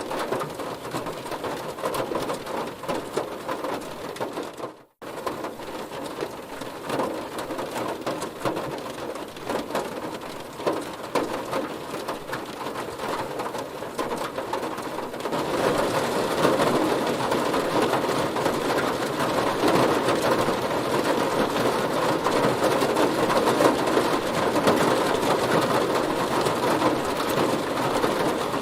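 Heavy rain pattering densely on a car's body, a steady crackling hiss. It cuts out for a split second about five seconds in and grows louder about halfway through.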